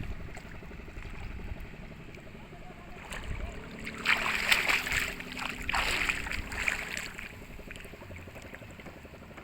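Fishing boat's engine running steadily while under way, a low rumble with a louder rushing noise from about four to seven seconds in.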